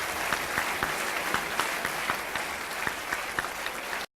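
Audience applauding steadily, with many individual claps, cutting off abruptly near the end.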